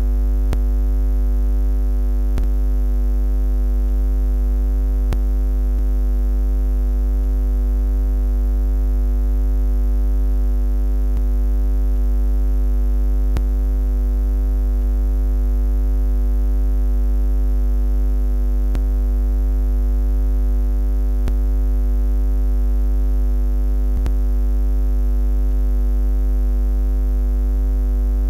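Steady low electronic buzz: a constant deep hum with a stack of fainter higher overtones, unchanging in pitch and loudness.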